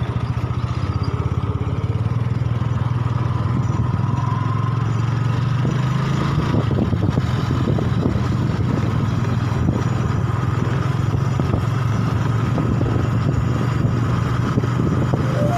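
Motorcycle engine running steadily while riding, its note shifting slightly about six seconds in.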